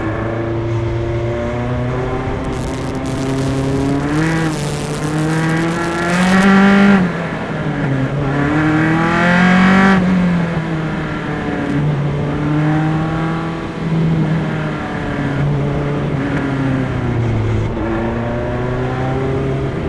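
Onboard single-seater race car engine at moderate pace, picked up by engine-mounted microphones. The revs climb twice, about four and eight seconds in, then drop back and settle between the pulls.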